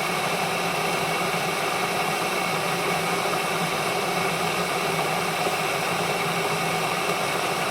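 Glass electric kettle heating water, a steady hiss and hum at an even level: the water is warming up but not yet boiling.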